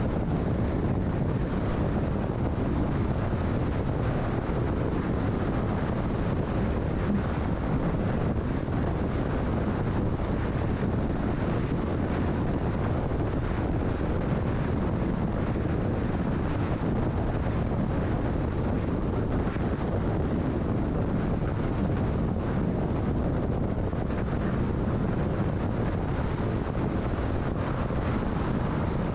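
Steady road noise of a car cruising at freeway speed: tyre noise and wind, with no change in level.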